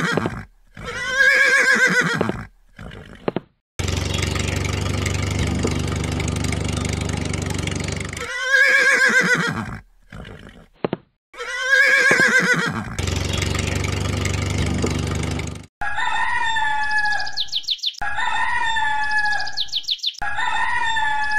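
Dubbed farm-animal sound effects: a horse whinnying four times, with two long stretches of steady engine rumble between the whinnies. Over the last five seconds chickens call and a rooster crows, three times.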